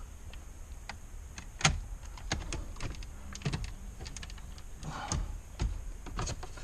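Plastic dashboard parts being tugged and pried by hand: irregular clicks and knocks as a panel that is still held in tight refuses to come out.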